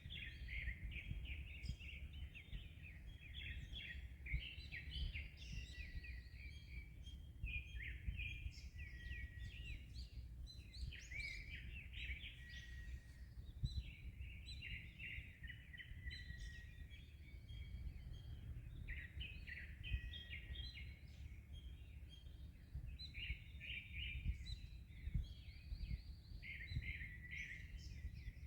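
Many small birds chirping and trilling densely, without a break, over a low steady rumble of wind and sea waves.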